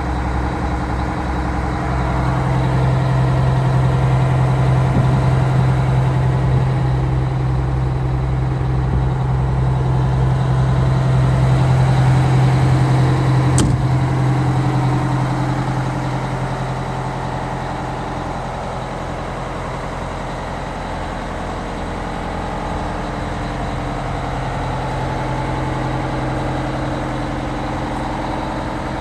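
The Oshkosh M1075's Detroit Diesel 8V92 two-stroke V8 turbo diesel running at a steady speed. It is louder for the first half and then eases off somewhat, with a single sharp click about halfway through.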